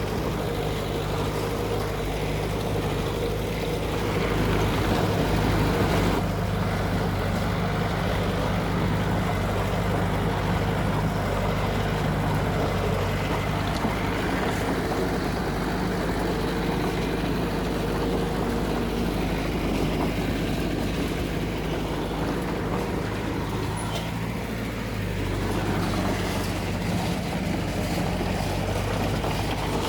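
Diesel engine of heavy earthmoving machinery running steadily under work, its note shifting briefly about two-thirds of the way through.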